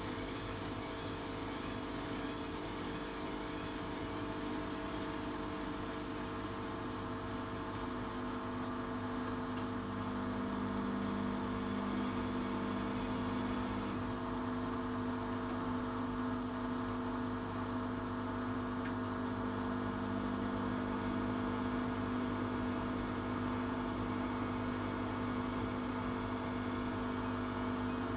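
Atlant 70C1010-02 front-loading washing machine running: a steady motor hum and whine, getting a little louder about ten seconds in.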